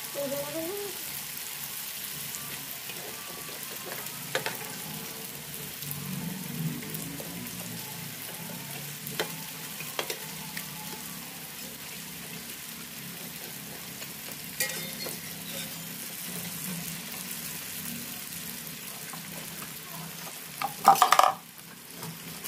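Mung-bean peyek crackers frying in hot oil in a wok: a steady sizzle, with a few sharp clicks of a metal spatula against the wok as the crackers are turned. A short, loud clatter comes near the end.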